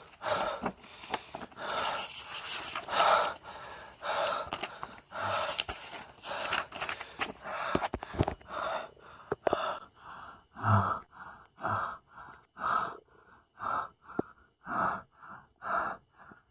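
Rapid, rhythmic gasping breaths, in and out, that settle into a regular pattern of about two a second in the second half.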